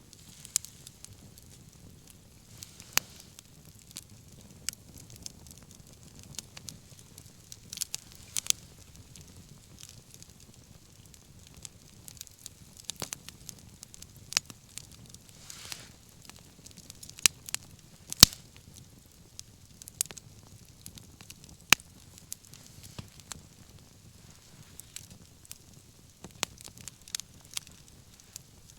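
Wood bonfire burning, crackling with sharp, irregular pops, a few of them louder, over a low steady rumble of flame. A brief soft hiss comes just past halfway.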